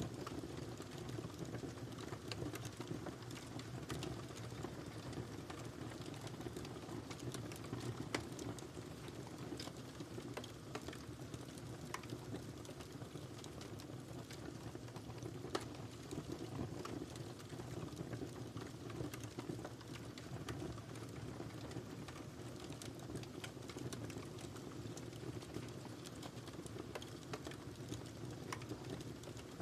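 Wood fire crackling in a fireplace: a steady low rumble of burning with many small pops and crackles throughout, a few of them sharper.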